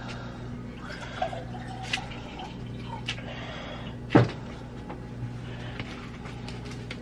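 Light handling noises during kitchen food prep: scattered clicks and taps, with one louder knock about four seconds in, over a steady low hum.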